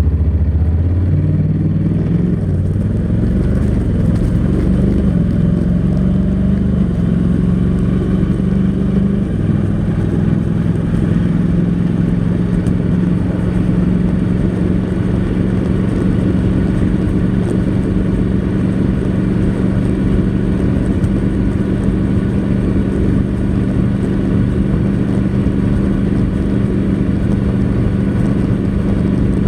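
Honda NC700X DCT's 670 cc parallel-twin engine through its stock exhaust, under way. Its pitch steps up and climbs over the first few seconds, changes again about nine seconds in, then holds steady at a cruise.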